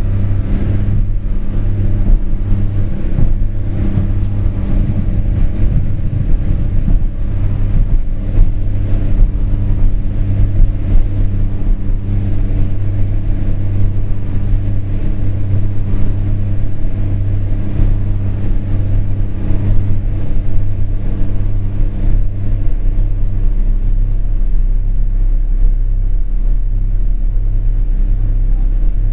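Train in motion, heard as a steady low rumble and hum with frequent short knocks and rattles throughout.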